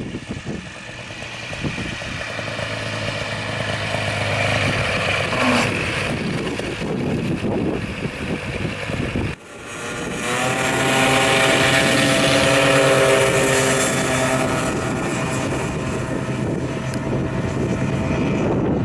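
Engine and propeller of a homemade light airplane running steadily. About halfway through the sound drops out sharply, then comes back louder with the engine pitch rising.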